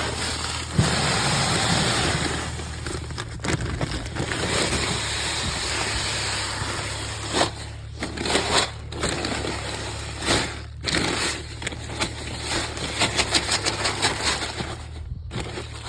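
Pelletized agricultural lime pouring from a 40-pound bag into a fertilizer spreader's hopper: a steady rush of pellets that breaks off briefly a few times, turning into a patter of separate pellets near the end as the bag empties.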